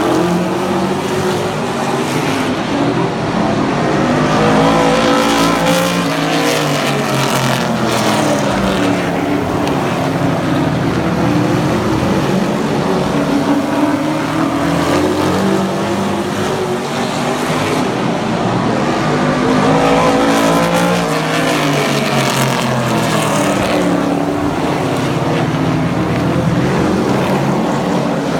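Race truck engines running at full throttle around a short oval. The engine note rises and falls in pitch as the pack passes, twice.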